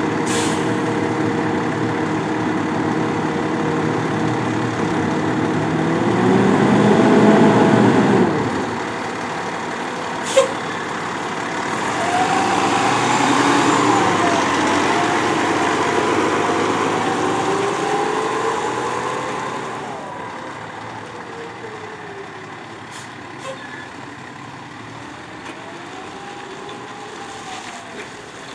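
Fire engine's diesel engine running, swelling louder for a couple of seconds, then a short sharp pop about ten seconds in. The engine then rises and falls in pitch as the truck pulls away, and grows fainter after about twenty seconds.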